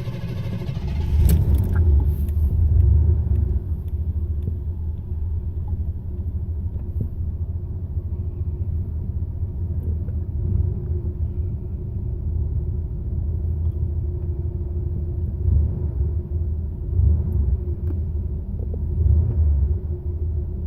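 Car engine running just after a hard start: it swells about a second in, then settles into a steady low rumble with a few brief surges of revs near the end.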